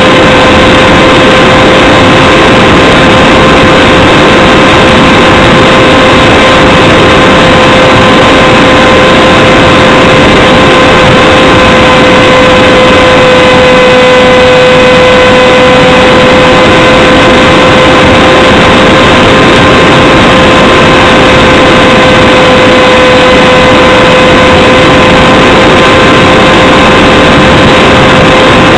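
Radjet 800 RC plane's electric motor and propeller heard from a camera mounted on the airframe in flight: a steady whine at one pitch under heavy rushing airflow noise, recorded at the microphone's limit and distorted. The pitch sags briefly about halfway through.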